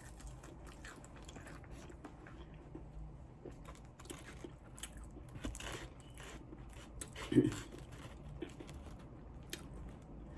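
Close-up chewing of fried chicken wings: a steady run of small crunches and wet mouth clicks, with one louder mouth sound about seven seconds in.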